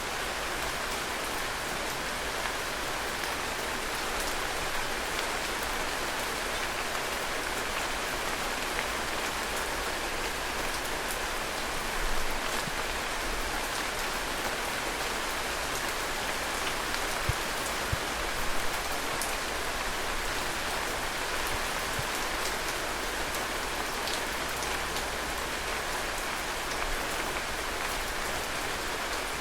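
Heavy rain falling steadily in a courtyard, a dense even hiss with individual drops pattering on surfaces and a few louder drip taps about twelve and nineteen seconds in.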